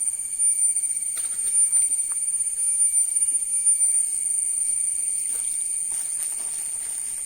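A steady, shrill, high-pitched insect call, like a cricket trilling without a break, with a few faint clicks and rustles over it.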